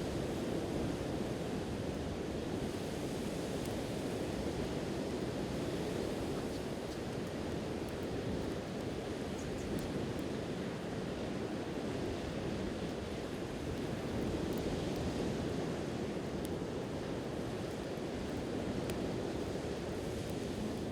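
Steady rush of ocean surf and wind, with a few faint crackles from a wood campfire scattered through it.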